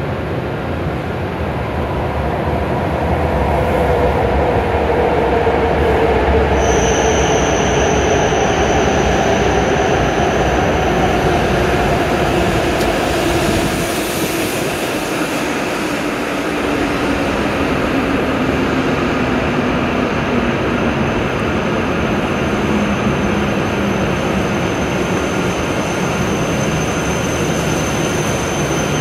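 E7 series Shinkansen train pulling in alongside the platform and braking: a steady rushing noise with a whine that falls steadily in pitch as the train slows. A thin high whine comes in about six seconds in and holds.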